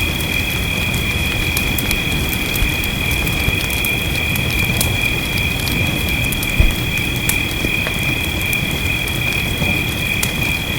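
Layered fireplace ambience: scattered sharp crackles of a wood fire over a low, steady rush, with one louder pop a little past the middle. Over it sits a steady, high-pitched chorus of night creatures, frogs or insects, holding on two pitches, and this chorus is the most prominent sound.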